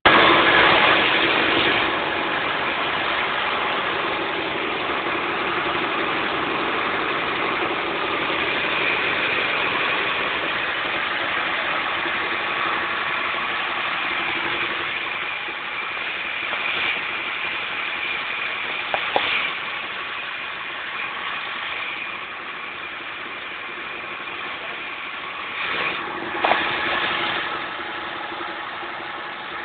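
2000cc engine coupled to a 15 kW generator, running steadily on biogas, with a few short knocks in the second half.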